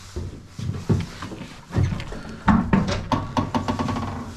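Knocks and clunks of old mower parts being lifted and handled, the loudest about two and a half seconds in. About three seconds in comes a quick metallic rattle with a thin ringing squeak.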